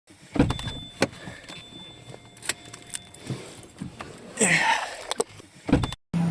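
Handling clatter: scattered sharp clicks and knocks, with a thump about half a second in, a brief rustle a little past the middle and another thump near the end.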